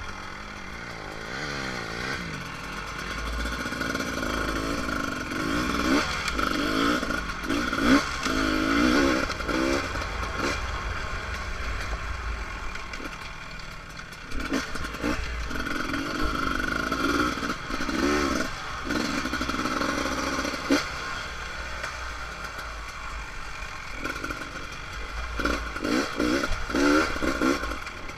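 Beta RR300 single-cylinder two-stroke dirt bike engine under way, its pitch rising and falling again and again as the throttle is opened and closed, with clattering from the bike over rough ground.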